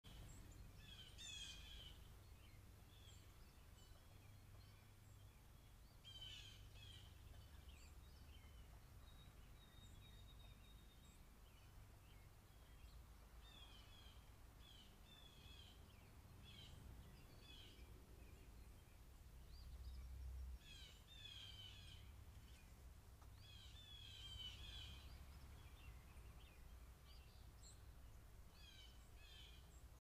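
Faint birdsong: songbirds singing short chirping phrases every few seconds, over a low steady rumble.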